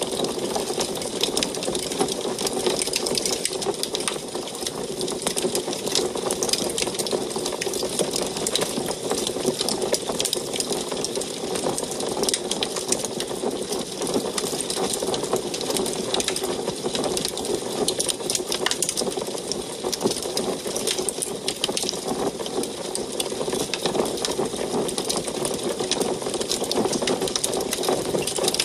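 Wood fire burning in an antique wood stove, crackling continuously with many small, quick pops over a steady low rush.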